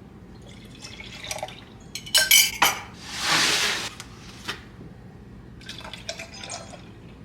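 Glass and kitchenware clinking and knocking while a coffee drink is made, with about a second of liquid pouring a little after the middle and a few light clinks near the end.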